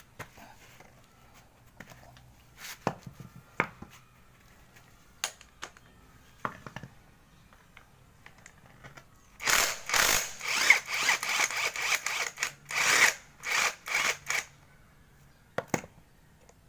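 Hand work on a motorcycle front fork: scattered knocks of tools and parts being handled, then about five seconds of loud, rough rubbing strokes, two or three a second, before a few more knocks.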